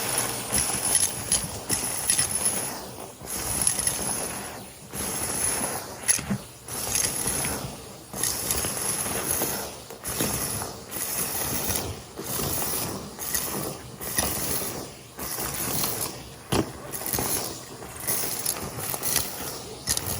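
Henry cylinder vacuum cleaner sucking up crunchy debris, bits rattling through the nozzle and hose. The sound rises and falls in surges about every second or so as the nozzle works over the pile.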